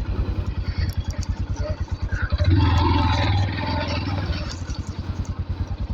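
Single-cylinder Yamaha motorcycle engine running at low speed with an even, fast thudding beat, swelling louder for about a second around the middle.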